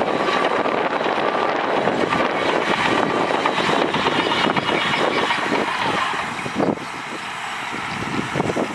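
Diesel engine of heavy earthmoving machinery running hard, a loud, rough, steady noise that drops in level about two-thirds of the way in.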